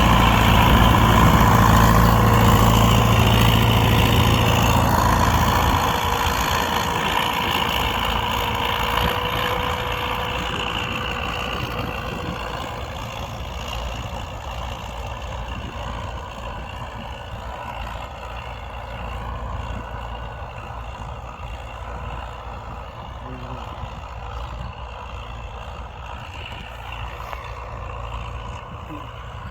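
U650 tractor's four-cylinder diesel engine running steadily while pulling a three-furrow plough. It is loud for about the first five seconds, then fades gradually.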